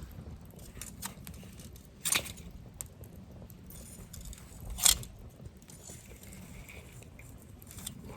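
Wood campfire burning with small crackles and two loud sharp pops, about two seconds and five seconds in.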